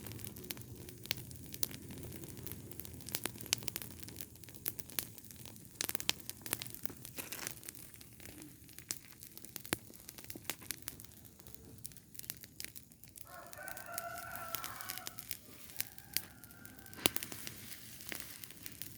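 Rubbish fire crackling, with sharp irregular pops throughout. A rooster crows once, starting about two-thirds of the way in and lasting about three seconds.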